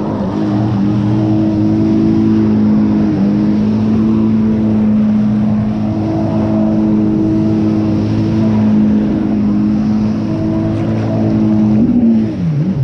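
An engine held at a steady high speed under power, its pitch stepping down slightly about three seconds in, then falling off near the end.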